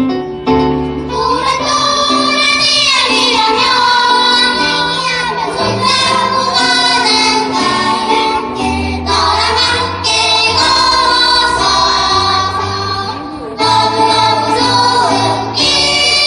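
Children's choir singing a song in unison with instrumental accompaniment carrying steady low notes.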